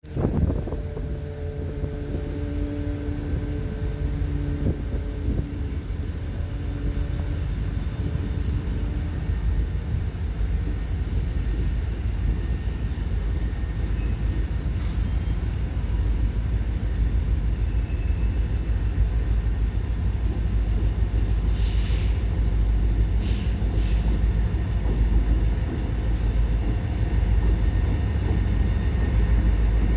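Train in a railyard rumbling steadily, with a held engine tone in the first several seconds and three brief high hissing or screeching bursts a little past the two-thirds mark.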